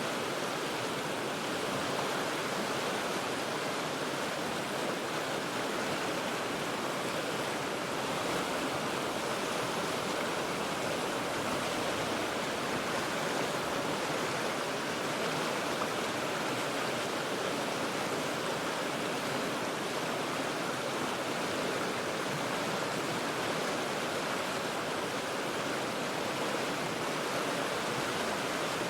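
The Cheat River flowing over rocks: a steady, even rush of water with no breaks or separate splashes.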